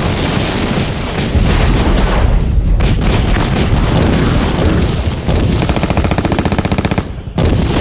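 War-zone battle ambience: gunfire and explosions over a deep rumble, with a long, rapid, evenly spaced burst of machine-gun fire in the second half.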